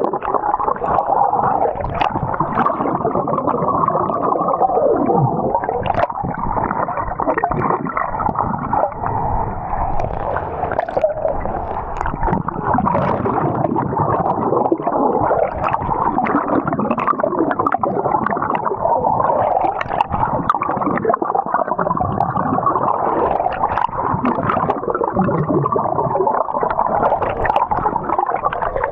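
Continuous muffled sloshing and gurgling of water, loud and unbroken.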